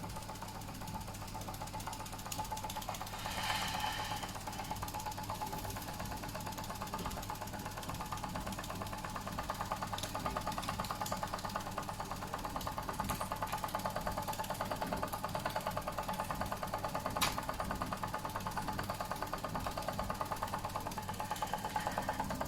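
Doll & Co 339/2 stationary model steam engine running on its remaining steam as it is left to run out, with a fast, even mechanical beat. A few separate clicks sound over it.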